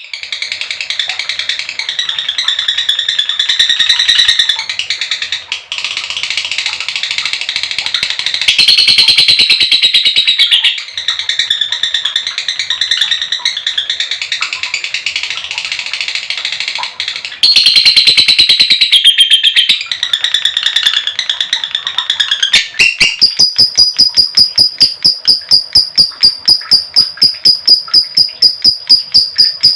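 Female lovebird giving its long, rapid chattering trill (ngekek panjang), high-pitched runs of fast notes broken by short pauses. About 23 seconds in the call turns into an even, fast string of sharp repeated notes.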